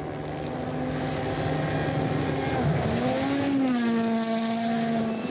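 Rally car engine getting louder as the car approaches. A little under three seconds in, the pitch dips briefly at a gear change, then climbs again and holds steady.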